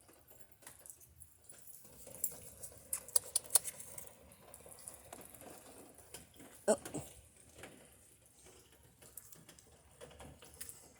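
Rain pattering and dripping, with scattered sharp ticks of drops and a louder single knock about seven seconds in.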